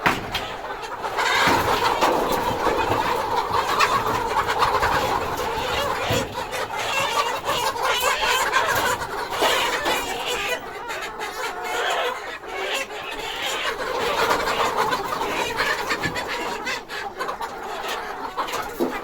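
A large flock of layer hens clucking and calling, many birds at once in a dense, continuous chatter.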